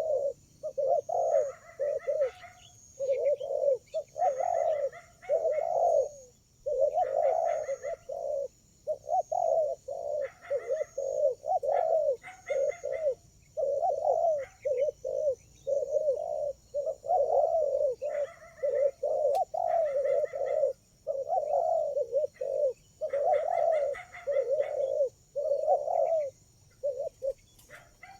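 Spotted doves cooing over and over, one short phrase after another with brief gaps between.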